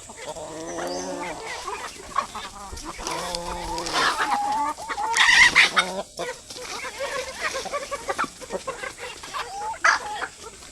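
Domestic chickens clucking while they feed on scattered paddy, with several drawn-out calls in the first half. Scattered short clicks follow through the second half.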